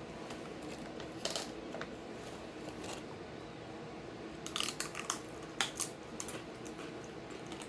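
Handling and eating taro chips: scattered crinkles and crunches from the chip bag and the thin chips, coming thickest about halfway through, over a faint steady hum.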